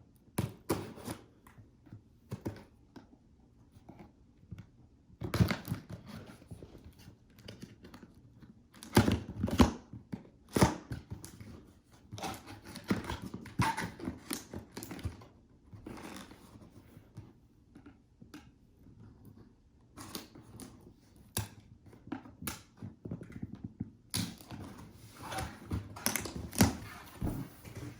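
Handling of the stick vacuum's parts and packaging: irregular rustles, clicks and knocks of plastic and paper, with a few sharper thunks.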